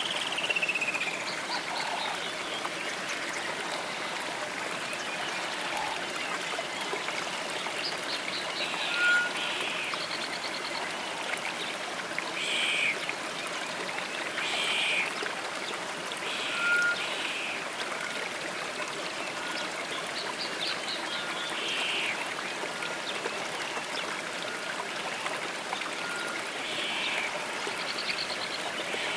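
Steady flowing stream with small birds calling now and then above it: short chirps, trills and brief whistled notes every few seconds.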